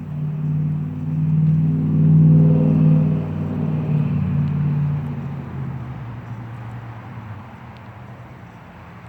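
Honda XR650L's air-cooled single-cylinder engine running, growing louder to a peak about two to three seconds in and then fading steadily away, as the motorcycle rides off.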